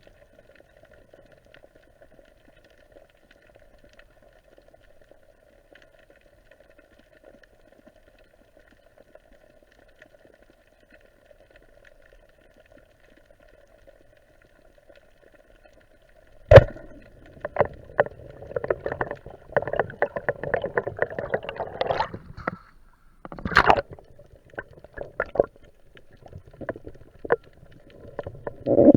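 Quiet underwater ambience with a faint steady hum. About sixteen seconds in, a sharp loud knock is followed by several seconds of gurgling bubbles and splashing, with another loud burst a few seconds later and scattered clicks.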